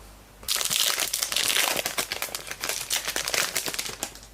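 Trading card pack wrapper crinkling and crackling as it is handled and torn open, starting about half a second in.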